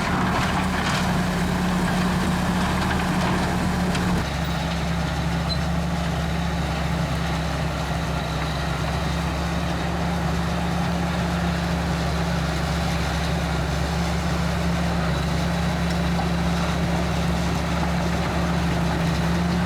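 Heavy diesel engine of an earthmoving machine running steadily, its note stepping slightly lower about four seconds in.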